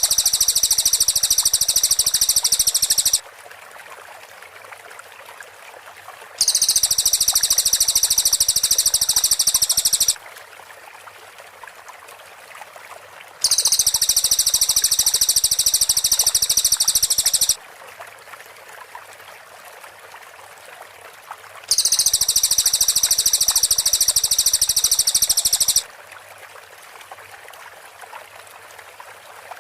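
Cililin bird song in a looped tutor recording: a high, dense rapid-fire trill ('tembakan rapat') lasting about four seconds, repeated four times at intervals of seven to eight seconds. A steady faint hiss of stream and insect background fills the gaps.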